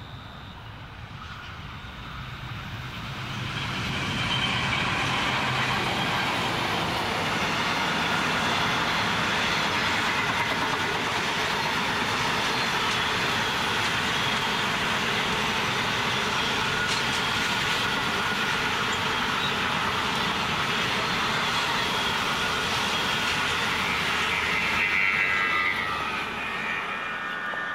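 Passenger train hauled by two NR class diesel-electric locomotives passing: the locomotives' engine sound builds over the first few seconds, then comes a long steady rush of carriage wheels running on the rails. A higher whine rises briefly near the end before the sound falls away as the last carriage goes by.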